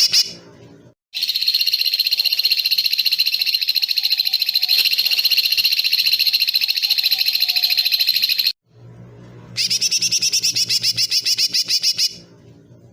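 Songbird masteran recording: high, rapid, buzzy trills ('tembakan'). A long trill of about seven seconds starts about a second in, and a shorter one of about two and a half seconds follows near the end.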